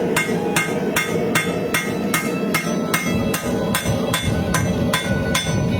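Rapid, evenly spaced hammer blows on hot W1 tool steel, about four or five a second, each with a metallic ring. The hammering is drawing down the heel of an integral-bolster knife blank.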